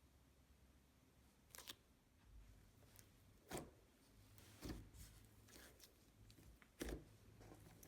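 Faint sticky clicks and pops of slime being poked and squished, a few separate ones spread over the stretch, over quiet room tone.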